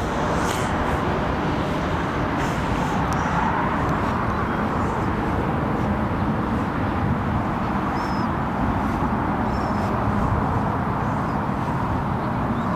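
Jet airliner's engines at takeoff power: a loud, steady, rushing noise as the aircraft climbs out after departure.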